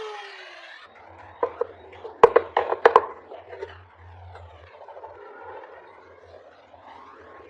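Hand-tool work on a block of wood: a quick cluster of sharp knocks and clicks about a second and a half in, the two loudest near the three-second mark, then light scraping.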